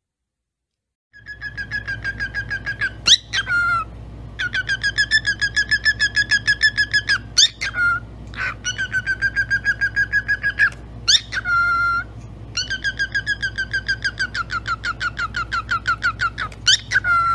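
A pet parrot whistling long runs of rapid, evenly repeated notes at one pitch, about six a second. The runs are broken now and then by sharp upward-sweeping whistles and a short buzzy call.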